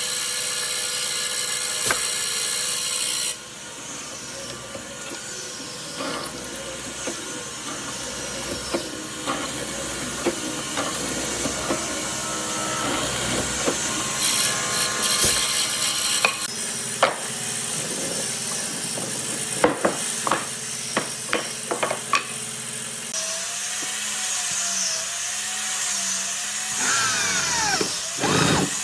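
Woodworking workshop sounds: a power tool running at first, then tool work on wood with a quick series of sharp knocks about two-thirds through, and a wavering whine near the end.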